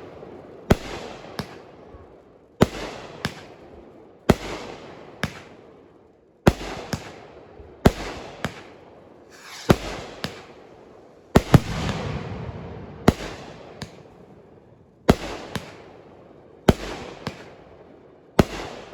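Aerial fireworks going off in a steady series: about every second and a half comes a pair of sharp bangs about half a second apart, each followed by a crackling rumble that fades away.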